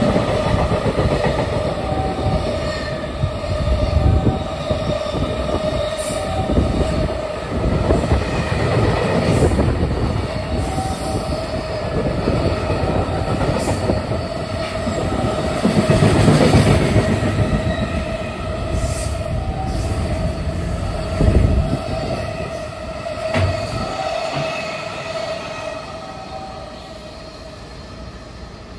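A long container freight train's wagons pass close by at speed: a continuous rumble of steel wheels on rail, with heavy thuds as wheelsets cross rail joints and a steady high ringing tone over it. The sound fades away over the last few seconds as the final wagons pass.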